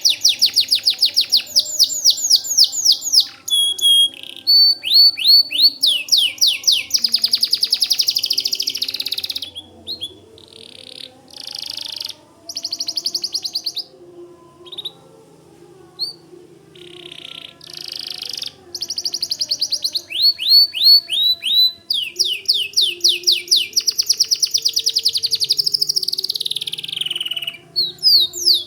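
White domestic canary singing a long, loud song of fast trills: rapid runs of repeated down-slurred notes and buzzy rolls. The song thins to shorter, softer phrases about a third of the way in, then picks up again with dense trills.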